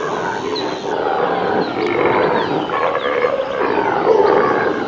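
Impala calls from a field recording: rough, repeated calls, with many short high chirps in the background.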